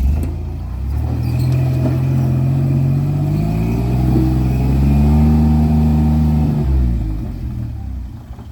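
Off-road vehicle's engine revving under load: the pitch climbs steadily over a few seconds, holds, then drops back toward idle about seven seconds in.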